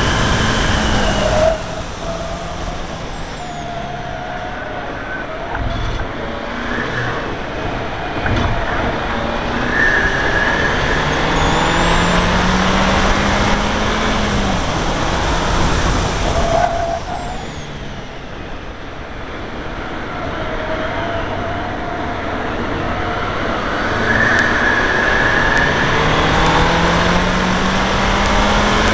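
Seat Leon Cupra R's turbocharged four-cylinder engine at full throttle on track, its note rising in pitch as it pulls through the revs, with tyre and wind noise beneath. The engine note drops suddenly twice, about a second and a half in and again about halfway, as the throttle is lifted, then builds again.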